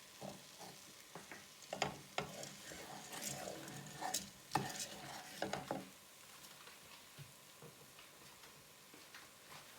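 A spoon stirring sausage pieces, mushrooms, onions and rice in a pot on the hob, with irregular knocks and scrapes against the pot through the first six seconds over a faint sizzle of frying, then quieter.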